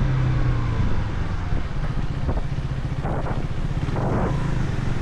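Motorcycle engine running under a rush of wind on the microphone while riding. The steady engine hum eases off about a second in.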